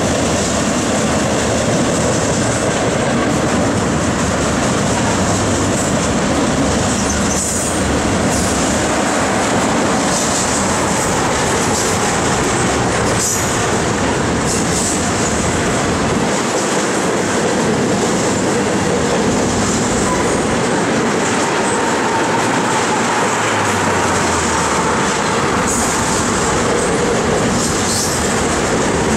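CSX double-stack intermodal freight train rolling past: steady, loud rumble and clatter of steel wheels on the rails under the loaded container well cars, with brief high wheel squeals now and then.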